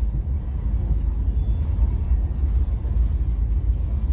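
Steady low rumble of a Trenitalia double-decker regional train running along the line, heard from inside a passenger coach.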